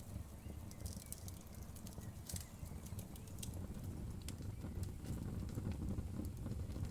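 Wood fire crackling in a fireplace: scattered sharp pops and snaps over a low, steady rumble of burning flames.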